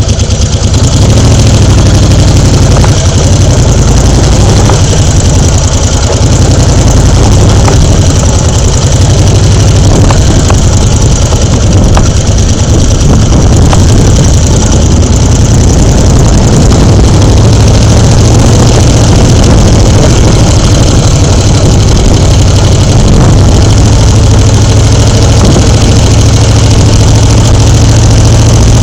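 An engine running steadily and loud, with a heavy low drone.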